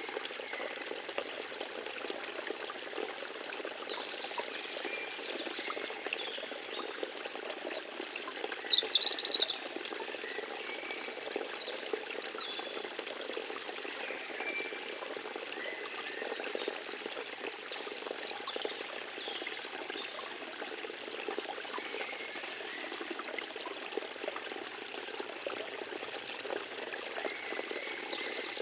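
Forest stream trickling steadily over a wetland soundscape, with small birds chirping now and then. One short, loud, high bird call comes about nine seconds in.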